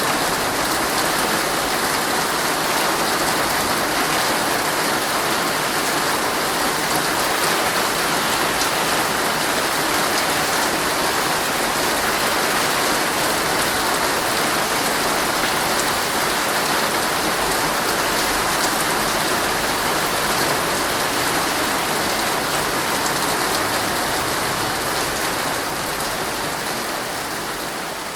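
Heavy rain drumming on a tent's fabric, a dense steady patter that fades out near the end.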